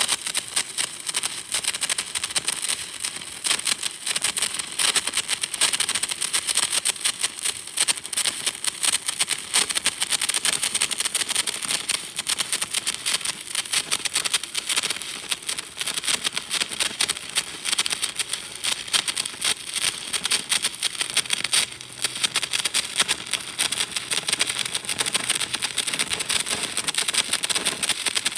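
Electric welding arc crackling steadily: a dense, even stream of fine crackles and sizzle from the rod burning in.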